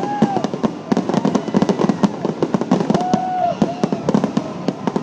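Fireworks going off: a dense, rapid run of bangs and crackles, many overlapping.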